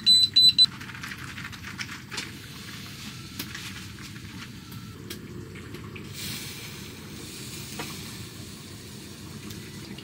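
A carbon monoxide alarm beeping rapidly stops within the first second, its reading having climbed to 147. After that comes a steady sizzle of beef short ribs frying in butter, with a few faint clicks.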